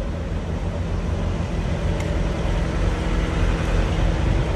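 Steady low drone of idling semi-truck engines.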